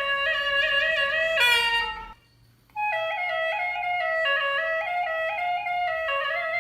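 Background music: a single woodwind melody moving in held notes, breaking off for under a second about two seconds in before carrying on.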